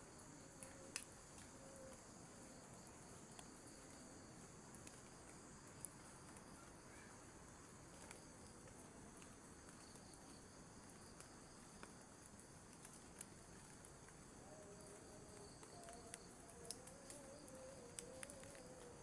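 Faint steady chorus of insects such as crickets, shrilling in several high-pitched bands, with scattered light taps, the sharpest about a second in.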